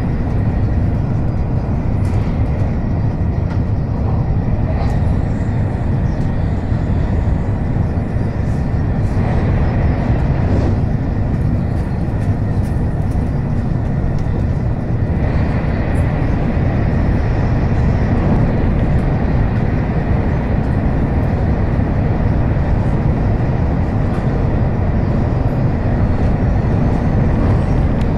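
N700 series Shinkansen running steadily, heard from inside the passenger car: a continuous, low-pitched running noise of the train on the track.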